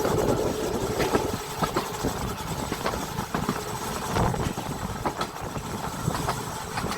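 Seaton Tramway narrow-gauge electric tram running along its track: a steady rumble with irregular clacks and knocks from the wheels on the rails.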